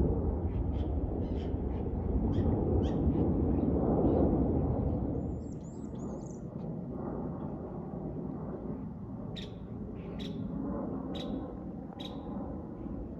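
Low rumble of a departing airplane that fades away about five seconds in. Birds chirp throughout, with a run of descending chirps in the middle and four sharp calls about a second apart near the end.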